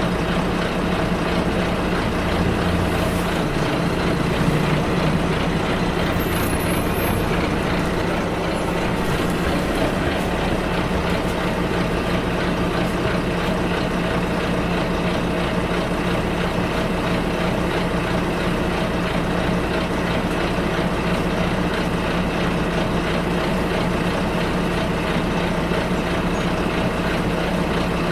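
Steady running noise of a bus heard from inside, with a constant low engine drone and road noise and a slight swell a few seconds in.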